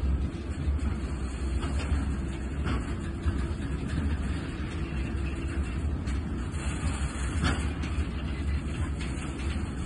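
Freight train of Falns bulk hopper wagons rolling slowly past: a steady low rumble of steel wheels on rail, with a few irregular clacks and knocks from the wheelsets and couplings.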